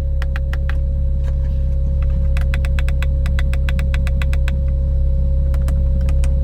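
Porsche 911 Turbo's twin-turbo flat-six idling steadily, with quick runs of small clicks from the climate controls being worked.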